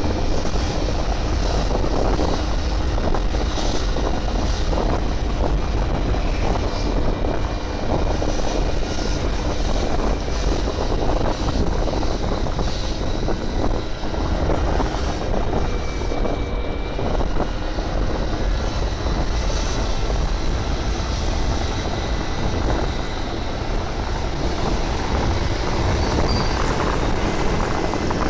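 Motorbike riding along, its engine running steadily under a heavy rush of wind across the microphone.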